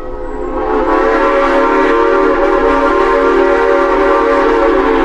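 Steam locomotive's multi-tone chime whistle blowing one long steady blast, swelling up over the first second, as the train sounds for a railroad crossing.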